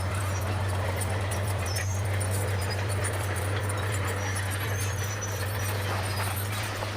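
Bulldozer's diesel engine running steadily with a deep, even drone, with light clanking over it.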